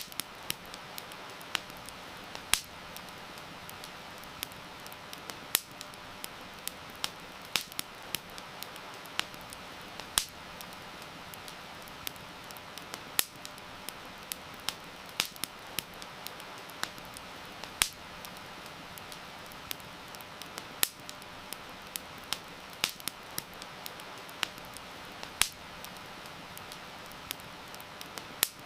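Wood fire crackling, with frequent sharp, irregular pops, over a steady hiss of heavy rain.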